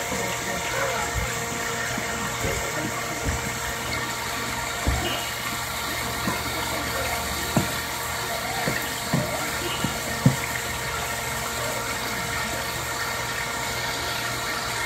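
Wood fire burning with a steady rushing hiss and irregular sharp crackles and pops, the loudest about ten seconds in.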